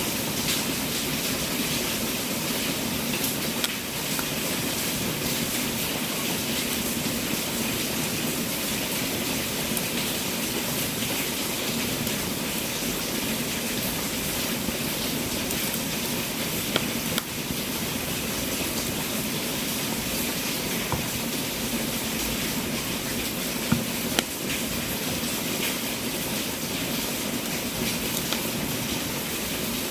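Wood fire burning in a fireplace: a steady hissing rush with scattered crackles and a few sharper pops.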